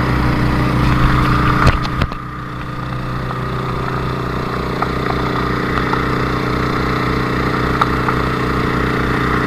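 Engine running steadily. About two seconds in there are two sharp knocks, the engine note drops and then gradually builds back up.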